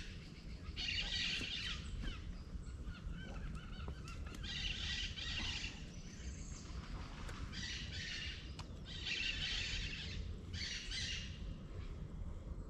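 Birds calling in repeated bursts of dense, high chirping, each about a second long and coming about six times, over a steady low background noise.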